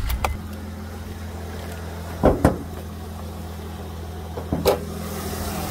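Honda J35 V6 engine of a 2008 Odyssey idling steadily, freshly refilled with oil and run with no coolant in it. Two sharp clunks come a little over two seconds in and another near the end as the hood is popped open.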